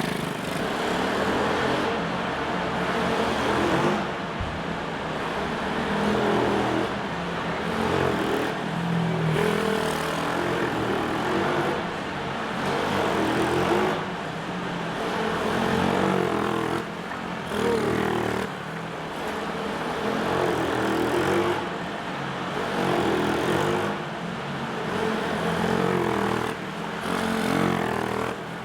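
IMR 90 minibike engine revving hard and easing off again and again as it laps a tight track, its pitch and loudness rising and falling every couple of seconds.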